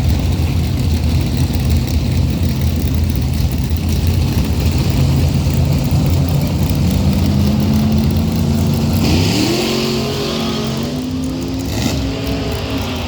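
Drag-racing engines: a deep, loud rumble, then from about seven seconds in the engine pitch climbs steadily as they accelerate, with a hiss added for a few seconds near the end.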